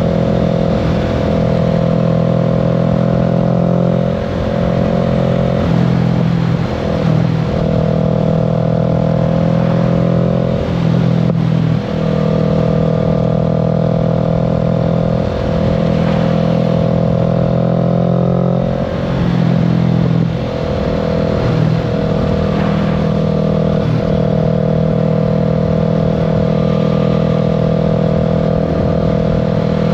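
Kawasaki Z650's parallel-twin engine running under way, its note mostly holding steady at cruising speed, with a few brief dips and recoveries in pitch as the throttle or gear changes.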